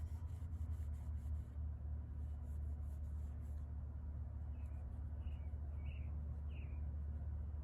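Faint scratching strokes over a steady low hum, with four short high chirps in the second half.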